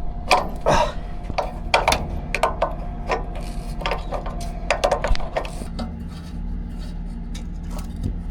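Hand tool clinking and scraping against metal in irregular strokes as a fitting on a truck is worked loose, thinning out after about six seconds.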